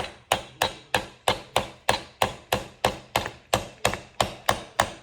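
Hammer repeatedly striking a nail into a wooden board, about three even blows a second.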